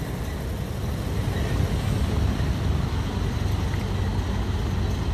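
Heavy truck engines running with a steady low rumble.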